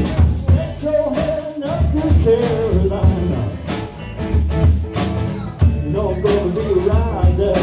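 Live band music: a drum kit keeping a steady beat with a melody line bending in pitch over it.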